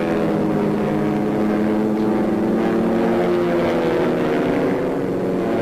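Propeller-driven fighter planes' piston engines droning, their pitch sinking slowly.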